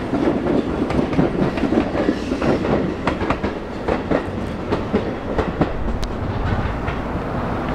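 Seibu 001 series Laview electric train running over station pointwork, its wheels clicking over rail joints and crossings above a steady low rumble.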